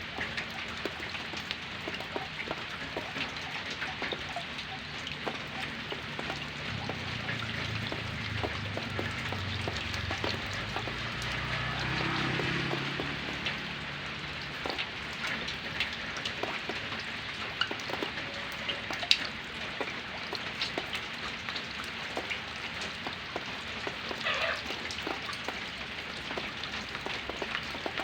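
Rain falling steadily, with many individual drops pattering and ticking on nearby surfaces. A low hum swells up about a quarter of the way in and fades again around the middle.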